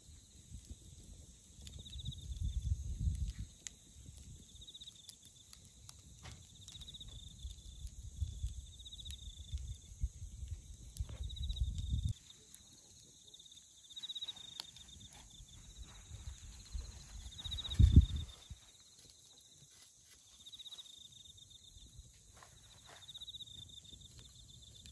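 Wood bonfire crackling, with scattered sharp pops from the burning dry firewood, and insects chirping in short repeated trills. Uneven low rumbles come and go, the strongest a brief thump about three quarters of the way through.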